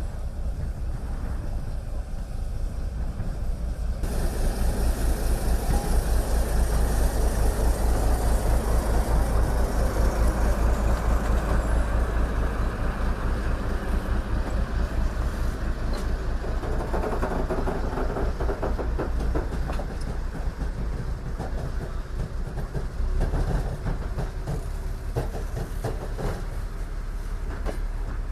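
A train rolling slowly with a steady low rumble. About halfway through, a run of wheel clicks over the rail joints begins.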